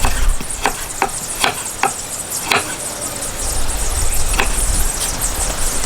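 Meat sizzling as it fries in a cooking pot, with a metal ladle stirring and scraping against the pot in about seven irregular strokes.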